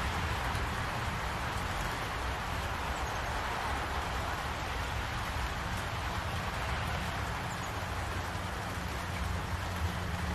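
Steady rain falling on trees and grass, an even hiss. A low engine hum grows louder near the end.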